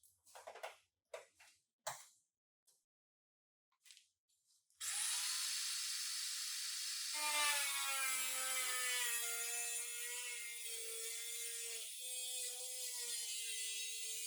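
A few short knocks and scrapes, then a power tool starts about five seconds in and runs for the rest, first as a rushing noise, then with a steady whine that dips briefly near the end.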